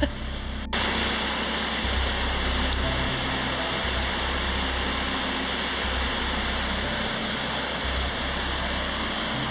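Waterfall: a steady, dense rush of falling water that starts abruptly just under a second in, with soft background music underneath.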